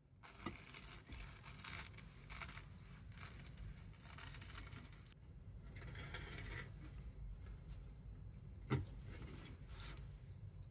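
Rustling and scraping of small things being handled at close range, in patches, with a couple of sharp clicks near the end.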